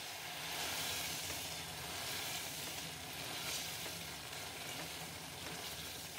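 Chicken pieces sizzling steadily in spiced masala, oil and melting butter in a cooking pot, stirred with a silicone spatula: the bhuna stage of frying the chicken.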